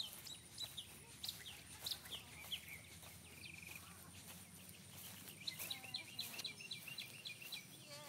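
Songbirds chirping and singing: many short, high notes that slide downward, a brief trill about three and a half seconds in, and a quick run of repeated notes near the end. Scattered faint clicks are heard throughout.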